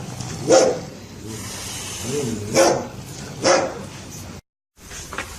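A dog barking three times, in short, loud barks spaced a second or two apart. Near the end the sound cuts out abruptly for a moment.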